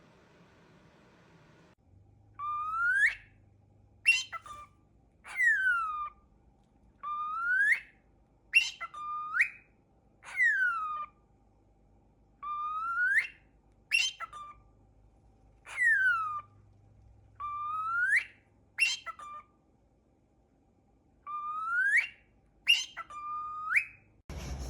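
A bird whistling a repeated phrase of loud, clear notes, each swooping up or down, the phrase coming round about four times with short pauses between.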